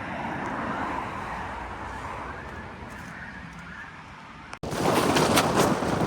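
Steady outdoor background noise, then an abrupt cut about four and a half seconds in to much louder wind noise buffeting the microphone, with crackling.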